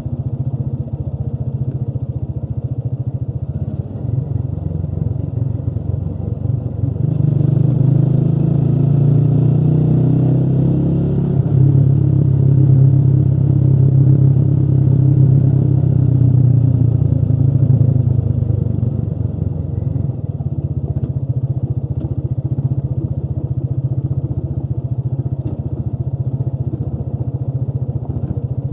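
Motorcycle engine running steadily while riding, heard from on the bike; it grows louder from about seven seconds in, as if under more throttle, and eases back down at around eighteen seconds.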